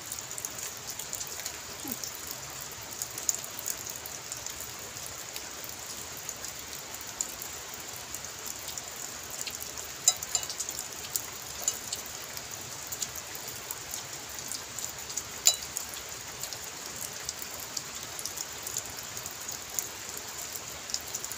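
Steady rain falling, with a few sharper clicks of a spoon against a plate near the middle.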